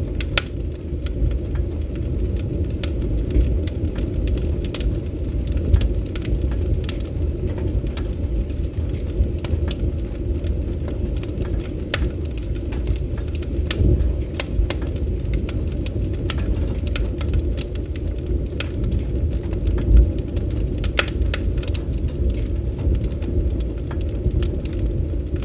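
Fire in a fireplace crackling: a steady low rumble of flames with frequent sharp pops and snaps, the loudest pop about three quarters of the way through.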